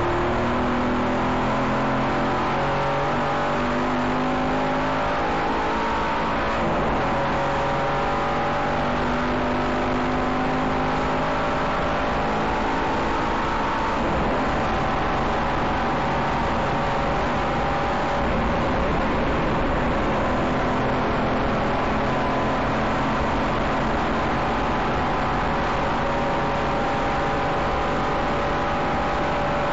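Aston Martin Vantage engine under hard acceleration, heard on board. Its note climbs slowly and breaks sharply twice, about seven and fourteen seconds in, then runs steadier.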